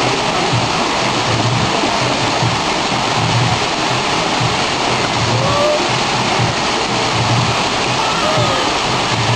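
Water pouring and spraying steadily over a water-play structure, a dense rushing hiss, with background music's low beat repeating about once a second underneath.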